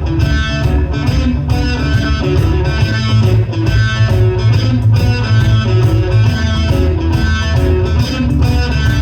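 Live rock band playing: electric guitar and bass over drums, with a steady beat.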